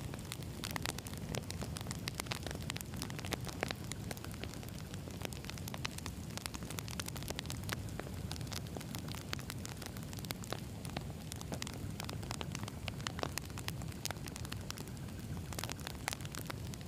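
Campfire of burning logs crackling and popping steadily, with a low rumble of the flames beneath many sharp snaps.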